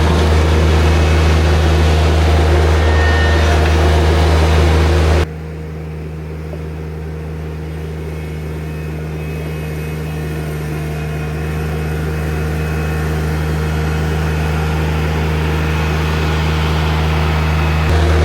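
New Holland TZ22 compact tractor's diesel engine running steadily as it works gravel. About five seconds in, the sound drops suddenly to a quieter, duller version that grows slowly louder, then jumps back to full level near the end.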